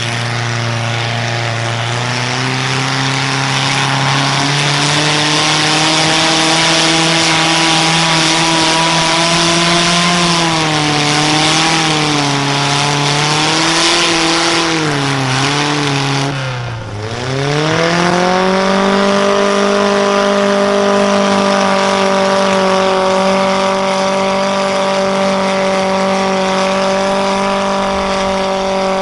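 Engine of a pulling truck or tractor running hard at high revs under load, with a loud hiss over it. Its pitch wavers, drops sharply about seventeen seconds in, then climbs back and holds steady at a higher pitch.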